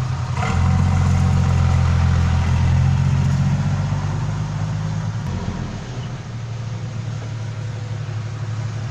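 Heavy diesel engine running steadily, easing off and settling to a lower idle a little after five seconds in.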